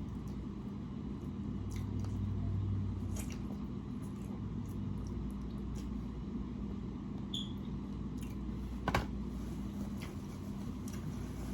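Eating sounds: chewing on ribs, with scattered faint clicks and a sharper knock about nine seconds in, over a steady low hum.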